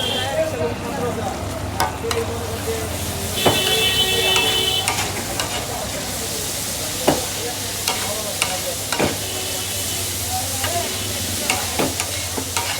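Chicken chaap frying in hot oil on a flat street-stall pan, with a steady sizzle and a few sharp metal clanks of a spatula against the pan. A brief high tone sounds about three and a half seconds in.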